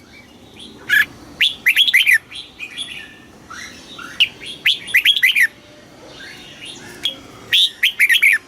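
Red-whiskered bulbul singing: three quick phrases of loud, bubbling whistled notes, about three seconds apart, with softer chirps between them.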